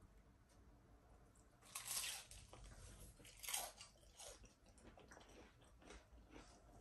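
Crisp fried chicken spring roll being bitten into and chewed, with crunches coming in short crackly bursts. The loudest are about two and three and a half seconds in, and smaller ones follow.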